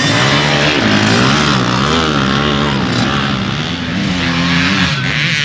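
Motorcycle engines racing, their pitch rising and falling again and again as the riders rev up and back off.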